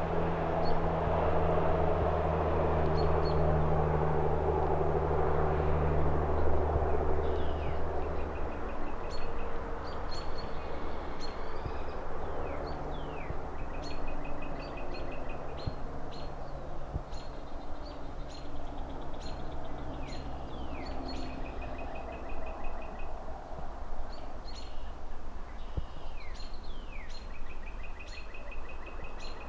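Outdoor city ambience: a low engine rumble from passing traffic fades out over the first several seconds over a steady distant hiss. Small birds then chirp repeatedly, with short trills and quick falling calls.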